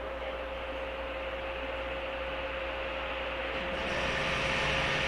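JNR 103-series electric multiple unit motor car standing with its doors shut: a steady electrical hum with a constant high whine. About three and a half seconds in, the sound grows louder and fuller as the train begins to pull away under power.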